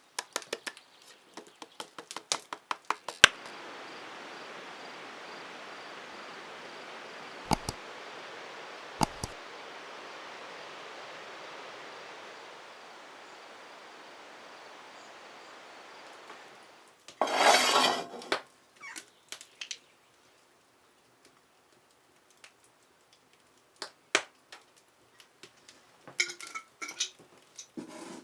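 Hand food-preparation sounds while potatoes are peeled and grated: a quick run of scraping strokes, then a steady hiss lasting over ten seconds with a couple of sharp clicks. One loud rough scrape follows, then scattered light knocks and clicks.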